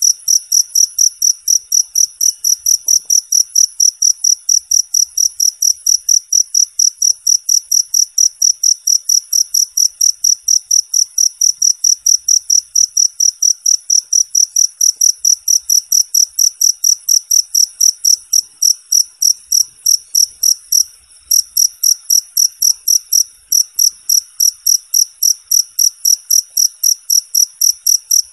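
A cricket chirping close and clean, an even run of high-pitched chirps at about three a second, with one short break about 21 seconds in.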